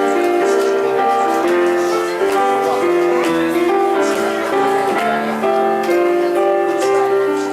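Live music from a children's ukulele performance, with voices singing a simple melody.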